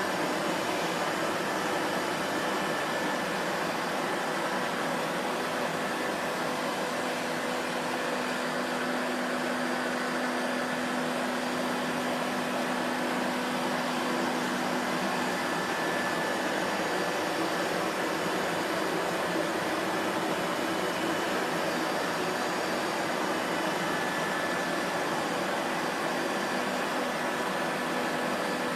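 Vacuum cleaner running steadily: an even rushing noise with a faint, steady motor hum.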